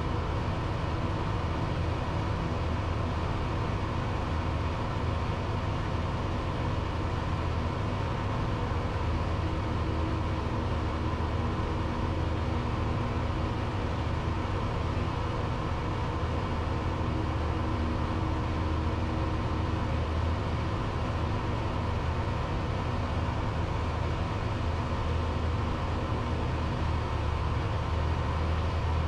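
Cessna 172's piston engine and propeller droning steadily in the cabin on the ILS final approach, with a deep hum and no change in power.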